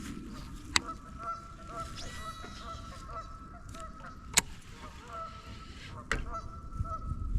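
Geese honking over and over. Two sharp clicks come through, one about a second in and one after about four seconds.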